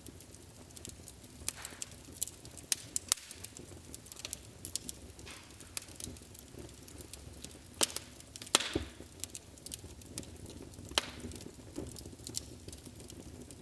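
Wood fire burning in a fireplace: a low steady rush of flames with irregular sharp crackles and pops, the loudest a few pops around the middle.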